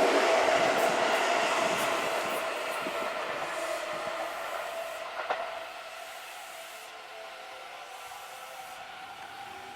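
Seibu Railway 6000-series electric commuter train running, its sound fading steadily over the first six seconds, with a steady tone throughout, then a low steady background. A single sharp click about five seconds in.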